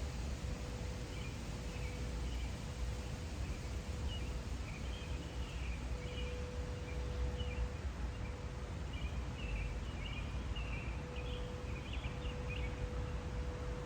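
Small birds chirping in short, scattered calls over a steady background of outdoor noise and low rumble.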